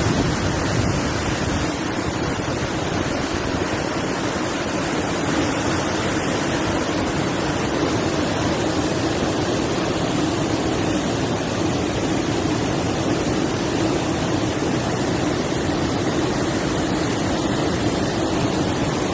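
Steady rush of falling water at the Fonts de l'Algar waterfalls, an even noise that does not change.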